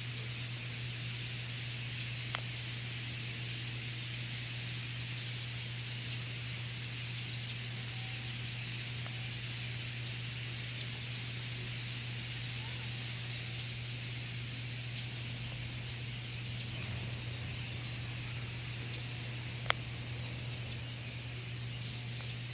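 A large flock of birds chirping and calling all at once, a dense continuous chatter of many overlapping chirps. A steady low hum runs underneath, and there are two sharp clicks, one about two seconds in and one near the end.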